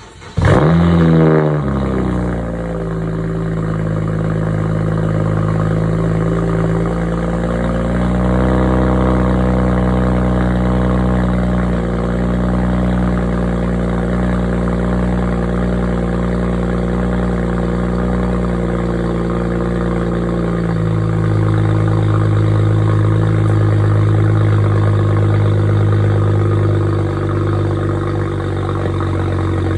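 BMW 135i's turbocharged straight-six cold-starting through a catless-downpipe, resonator- and muffler-delete exhaust (factory secondary cats kept): it catches about half a second in with a loud flare of revs, falls back into a high cold idle, and the idle steps down lower about two-thirds of the way through.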